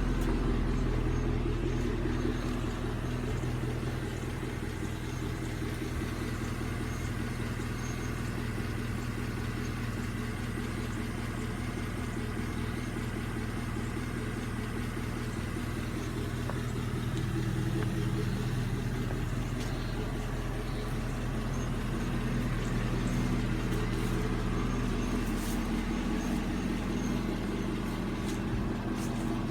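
Chevrolet Camaro SS V8 running at a steady idle through a Corsa cat-back exhaust, a low, even exhaust note.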